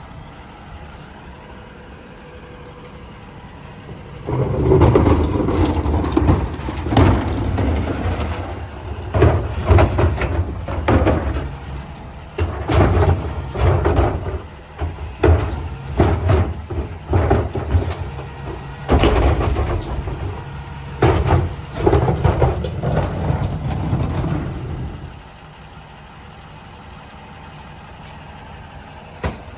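Mack rear-loader garbage truck idling, then about four seconds in a long stretch of loud, irregular metal clanks and bangs over heavier engine running. It settles back to a steady idle near the end.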